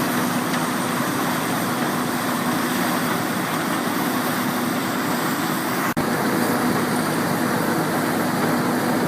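Trommel screen running: steady mechanical noise with a low hum, the drum sorting material such as wood chips or soil into two sizes. The sound drops out for an instant about six seconds in.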